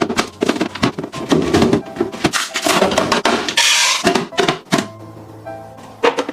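Food packaging and containers being handled and packed into a refrigerator: a dense run of irregular plastic clatter, taps and knocks, with a burst of rustling packaging about halfway through.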